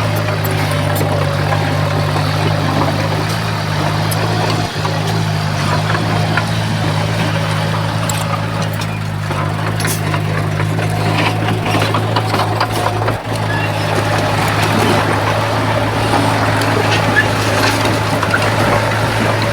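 Bulldozer's diesel engine running steadily with a constant low hum, over a noisy haze broken by scattered crunches and clicks.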